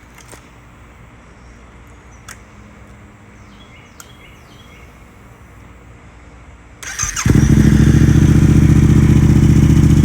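Quiet background with a few faint clicks, then about seven seconds in a Yamaha MT-07's parallel-twin engine cranks briefly and starts, settling into a loud, steady idle through an Akrapovič exhaust.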